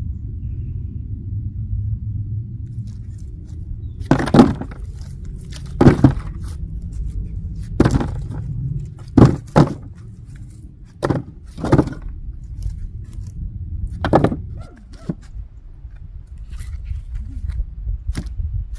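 About eight sharp knocks at uneven intervals, from wood or firewood being handled or struck, over a steady low rumble.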